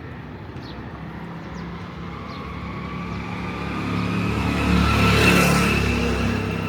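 Motor vehicle engine approaching and passing close by, growing louder to a peak about five seconds in, then fading as it moves away.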